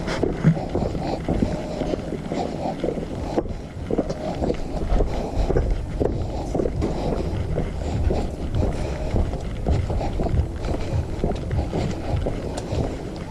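Wind buffeting the microphone, a dense uneven rumble over a vehicle's running noise, as heard while riding.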